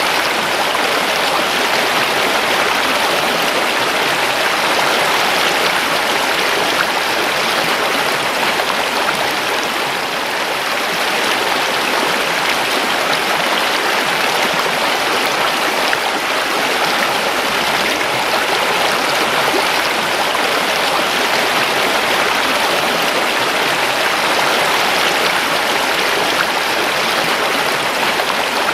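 A river's flowing water rushing steadily and evenly.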